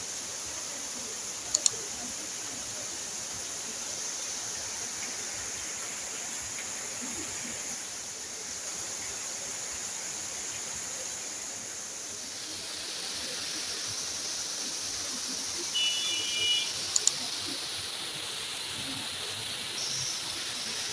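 Steady rain falling, an even hiss, with a couple of sharp clicks about a second and a half in and again near the end, and a brief high chirp just before the second clicks.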